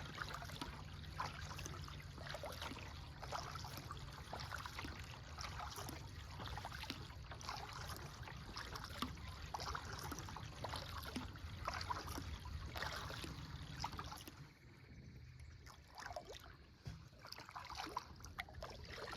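Kayak paddle strokes: the blades dip and drip, making irregular small splashes and trickles of water. The splashing eases off and gets quieter about three-quarters of the way through.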